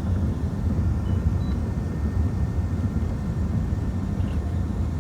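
Steady low rumble of an Emirates Airbus A380 airliner on its approach to landing.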